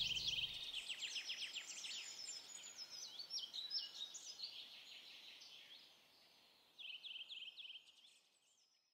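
Birdsong: many short high chirps and quick runs of repeated notes, with one more run about seven seconds in, fading out near the end.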